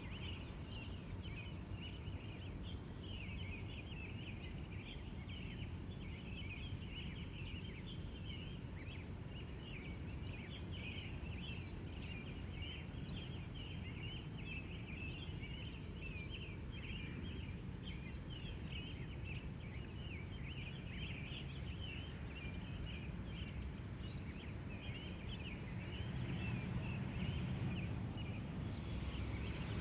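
Predawn chorus of wild birds giving many short chirps, over a steady high trill, with a low rumble underneath that swells slightly near the end.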